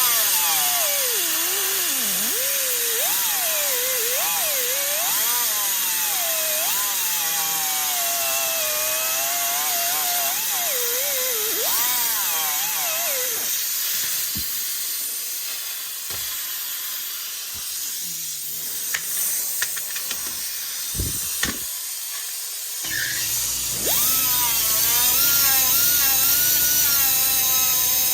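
High-speed handheld rotary power tool grinding metal, sanding down fresh weld beads on a motorcycle exhaust pipe. Its whine dips and rises in pitch as it bites and eases off. It lets up about halfway through, with a few sharp knocks, then starts again near the end.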